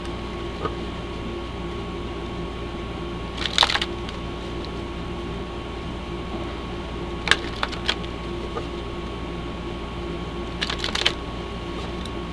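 A deck of crystal oracle cards being shuffled and handled: three short bursts of card clicks and slaps, a few seconds apart, over a steady background hum.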